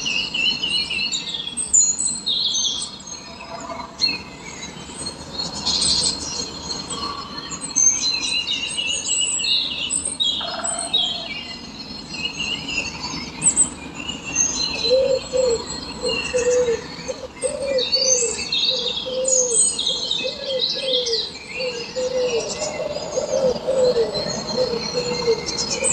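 Many small birds chirping and twittering in a dense chorus. From about halfway through, a lower call repeats in a steady series of short notes.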